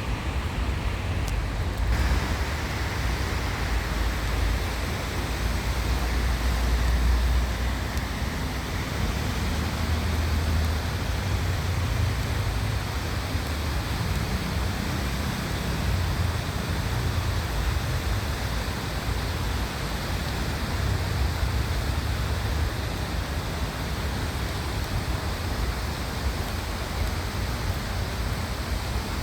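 A stream's water running steadily, with a low rumble underneath that rises and falls; the rushing hiss grows brighter about two seconds in.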